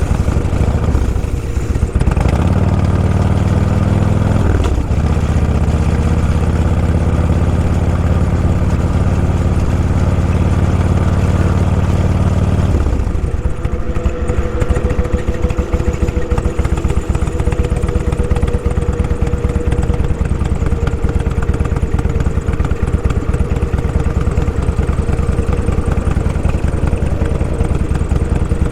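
Motorcycle engine running with a strong, steady note for the first dozen seconds, then dropping to a lower, rougher, pulsing note near idle.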